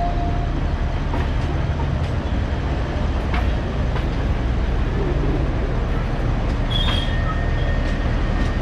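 Alishan Forest Railway train running: a steady low rumble with a few brief high squeaks and light clicks.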